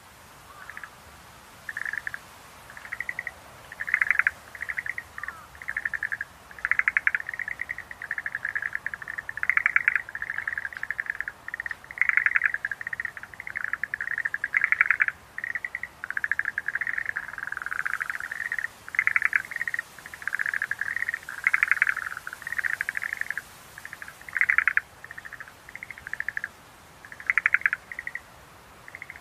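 Schlegel's green tree frogs calling: short trills made of rapid pulses, repeated one after another with only brief gaps.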